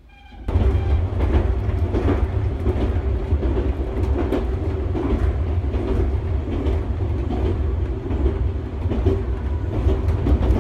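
Passenger train running at speed, heard from inside the car: a steady low rumble of wheels and running gear, with the clack of wheels over rail joints now and then. It starts abruptly about half a second in.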